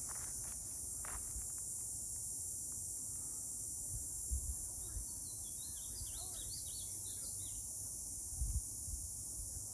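Insects buzzing in a steady, high, even drone, with a few short high chirps in the middle and a couple of low bumps.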